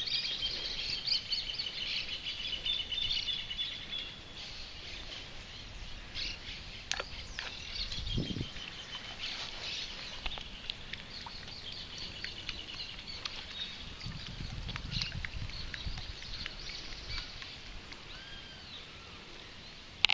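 Several birds chirping and singing, with a fast repeated trill in the first few seconds and again midway. There is a brief low rumble about eight seconds in.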